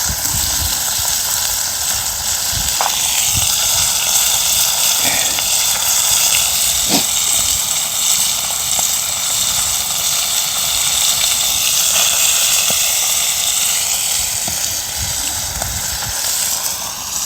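Sea bass and aged kimchi sizzling steadily on a hot iron griddle over a wood fire, a constant loud hiss with a few small pops.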